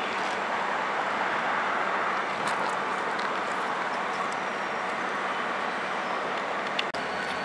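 CN freight train's cars rolling past on the rails: a steady rush of wheel and rail noise with faint high wheel squeals now and then. The sound drops out for an instant near the end.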